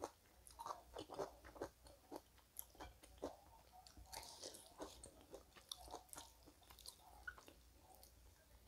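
Close-up chewing of a person eating rice and meat by hand, picked up by a clip-on microphone: soft, irregular mouth clicks and smacks.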